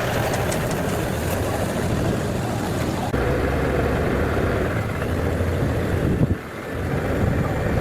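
A large vehicle's engine running steadily with a low rumble, the sound changing abruptly about three seconds in and dipping briefly a little after six seconds.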